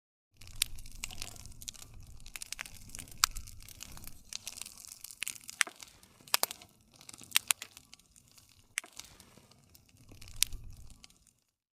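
Wood fire crackling, with frequent sharp pops and snaps over a low rumble of the flames. The sound cuts out completely for a moment at the very start and again just before the end.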